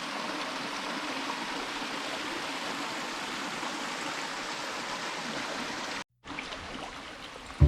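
Steady rush of running stream water. About six seconds in it cuts out for a moment, then returns fainter.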